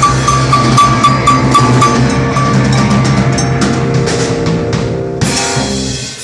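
A live rock band playing, with the drum kit prominent. A heavy hit comes about five seconds in, and the music stops just at the end.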